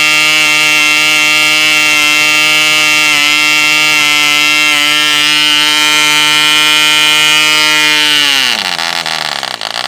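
Cipolla 1.5cc Junior two-stroke glow engine running flat out on castor-oil fuel, turning an 8x6 propeller with a steady high buzz. About eight seconds in, its pitch drops sharply and it sputters as the engine quits.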